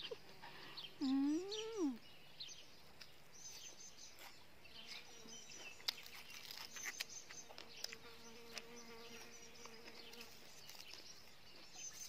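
Songbirds chirping and singing in short, high calls throughout. About a second in, a brief hummed 'mmm' from the eater, rising then falling in pitch. A faint steady buzz runs through the middle.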